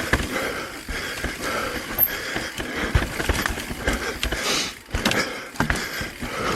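Mountain bike rattling down a rough, rocky trail: a dense, irregular clatter of knocks from the tyres and bike hitting rock, with a brief lull near the end.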